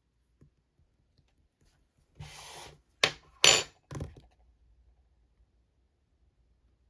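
Slime container being handled: a short rustle, then three sharp clacks about half a second apart, the middle one the loudest.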